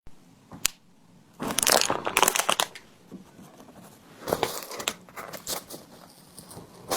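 Packaging crinkling and tearing as it is handled and opened, in two main bursts of rustling with smaller rustles between, after a single sharp click.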